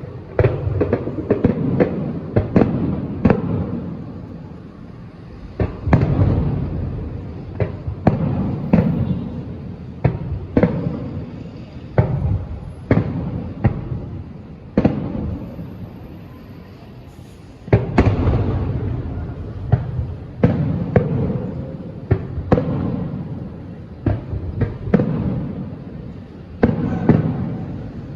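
Aerial fireworks bursting in quick succession: sharp cracks and low booms with echoing rumble, coming about once or twice a second, with two brief lulls.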